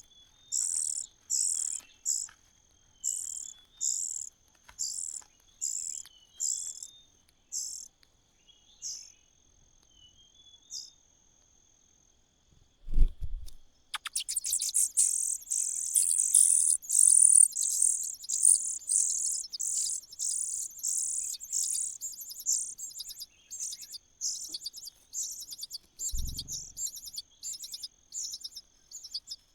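Nestling birds' begging calls: short high-pitched cheeps about once a second, then, after a dull thump about halfway through, a rapid, louder run of begging calls. A second thump comes near the end.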